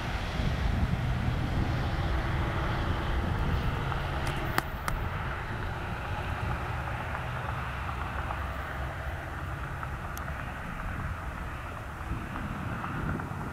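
Freight train's last cars rolling away on the rails: a steady low rumble of wheels on track that slowly fades, with a few sharp clicks.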